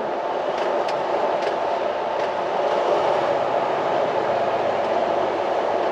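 Steady rumble inside a semi truck's cab while driving: engine and tyre noise.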